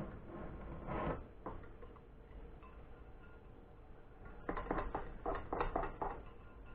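A utensil stirring cocoa powder into melted browned butter in a pan, scraping and clicking against its side, with a quick run of strokes in the second half.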